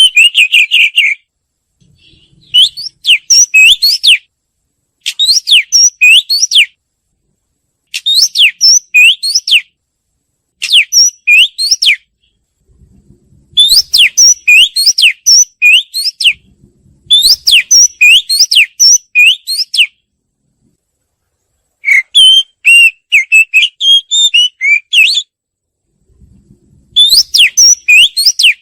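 Oriental magpie-robin singing: about nine short phrases of quick, rising whistled notes, each one to two seconds long, separated by brief pauses.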